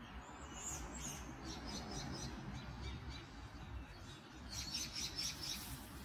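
Bird chirping in two bursts of quick, high notes, the first starting about half a second in and the second near the end, over a steady low rumble.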